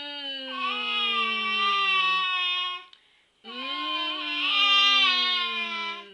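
A voice holding two long, drawn-out vowel sounds, each about two and a half seconds, sliding slowly down in pitch, with a short pause between them.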